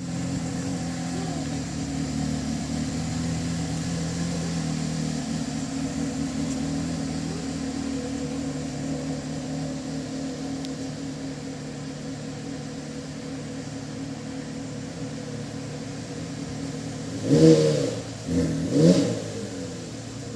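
Porsche Carrera GT's 5.7-litre V10 engine idling steadily, then blipped twice near the end, each rev a short sharp rise in pitch and loudness about a second and a half apart.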